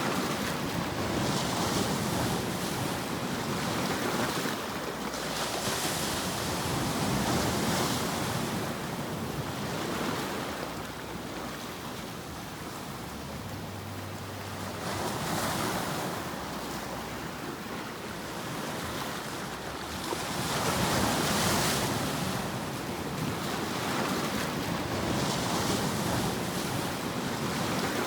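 Ocean surf: a steady rush of waves that swells and falls back every few seconds.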